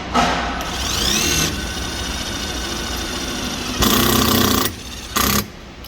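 Metabo HPT 36V triple hammer impact driver in screw mode, driving a self-tapping screw into steel. It runs in several trigger pulls: a long run with the motor pitch rising and then falling about a second in, a louder burst of hammering near the end, and a short one after it.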